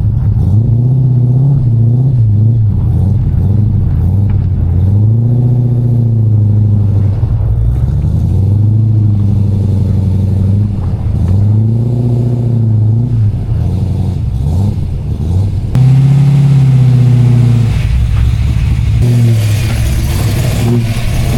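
Race car engine running loud, its pitch rising and falling again and again as it accelerates and lifts off through a lap.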